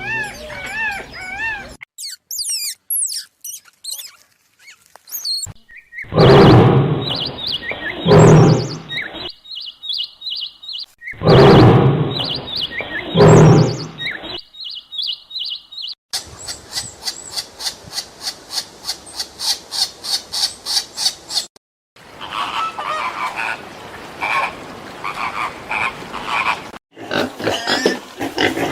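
A run of different animal calls cut one after another: high chirps, then four loud calls in two pairs, then a fast, even pulsing call lasting several seconds, then more chirping.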